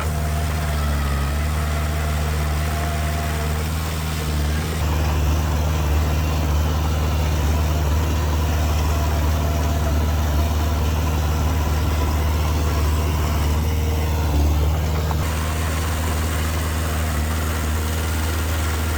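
Heavy-equipment diesel engine running steadily, louder and busier from about five to fifteen seconds in.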